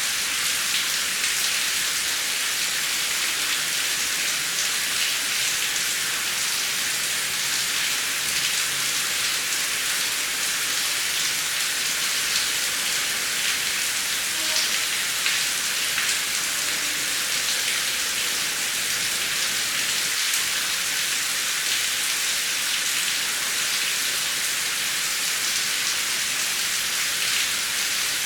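Heavy rain falling steadily, a dense even hiss of drops with fine patters on a surface.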